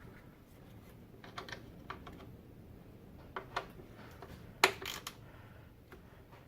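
Scattered sharp clicks and light metallic taps of a hand ratchet snugging down the DISA valve's bottom bolt, in a few short clusters with the loudest group about two-thirds of the way through.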